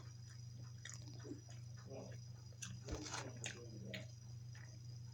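Soft, irregular chewing and mouth sounds of someone eating, with small wet clicks and smacks, over a steady low electrical hum.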